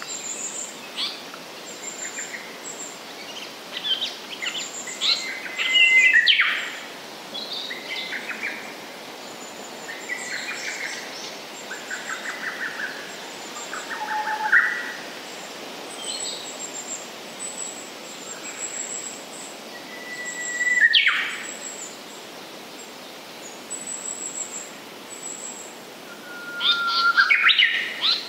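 Japanese paradise flycatcher singing among other birds, with varied whistled and chirping phrases and three loud sweeping calls: about six seconds in, about twenty seconds in, and near the end. A thin high note repeats steadily in the background throughout.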